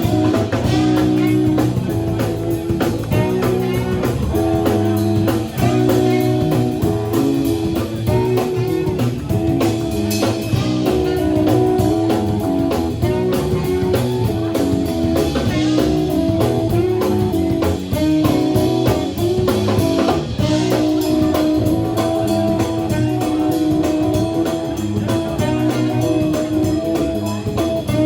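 Live band playing an instrumental passage: guitar playing over bass and drum kit, with no singing.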